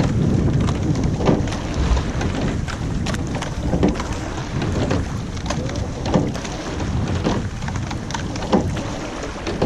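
Rowing shell under way: a steady rush of water and wind on the microphone, with a knock at each stroke of the crew, about every two and a half seconds.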